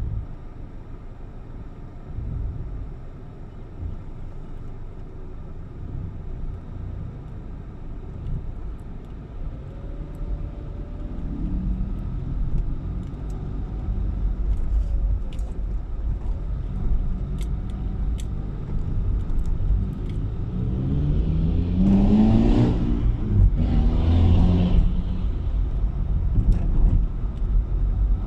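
A car on the road: a steady low rumble of engine and road noise that slowly grows louder. About two-thirds of the way in, two louder swells bring a rising engine note and hiss.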